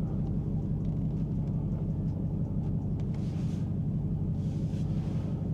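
Dodge Charger Hellcat's supercharged 6.2-litre HEMI V8 running at a steady, low, idling rumble. A faint hiss rises and falls twice in the second half.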